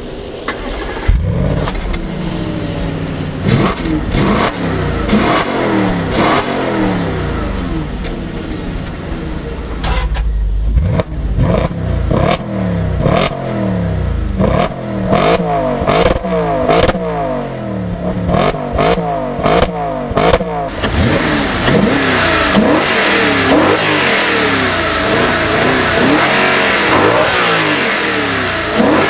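Audi RS4 Avant B8's naturally aspirated 4.2 FSI V8 revved over and over while standing, its exhaust note rising and falling with each throttle blip, some taken toward the redline. Sharp cracks come among the blips, and the revving gets busier in the last third.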